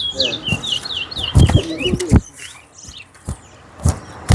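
Towa towa (chestnut-bellied seed finch) singing a fast run of repeated high, sliding notes that stops about two seconds in. This is a song being counted in a singing match. A few sharp knocks follow.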